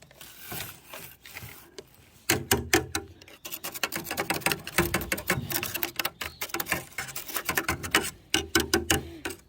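Rapid, irregular tapping and rattling from a metal stove flue pipe being knocked and shaken to dislodge caked soot and ash. It starts about two seconds in and keeps going as a dense run of small clicks and knocks.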